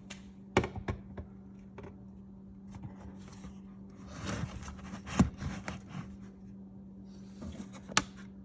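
Plastic rear door sill trim panel of a 2020 Mercedes-Benz GLE 350 being pried out. Its retaining clips give a handful of sharp clicks as they snap free, with scraping and rubbing of plastic in between.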